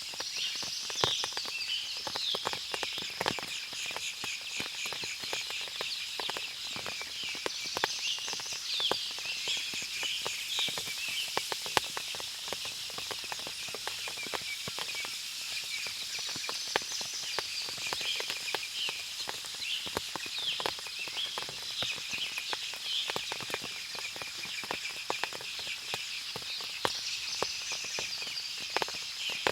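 Forest ambience after rain: water dripping from the leaves in many small ticks, over a steady high-pitched drone. A bird sings a short run of chirps about every eight to ten seconds.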